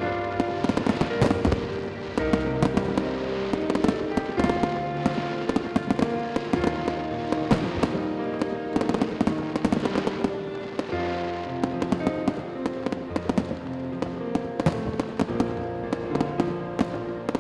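Aerial fireworks display: shells bursting and crackling, many bangs in quick succession, over music.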